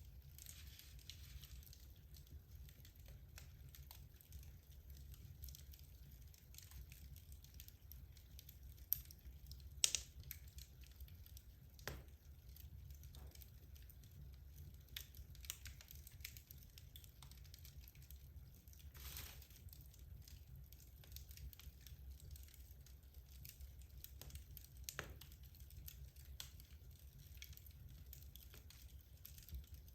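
Wood logs burning in a fireplace, crackling quietly with many small ticks over a faint low rumble. A few louder pops stand out, the loudest about ten seconds in.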